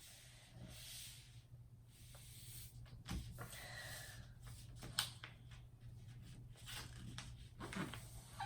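A sheet of paper rustling as it is folded and creased by hand, with scattered sharp taps and clicks, the sharpest about five seconds in. A low steady hum lies underneath.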